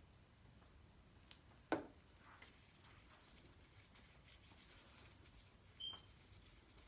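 Near silence: room tone, with a single sharp tap a little under two seconds in and a brief high squeak near the end.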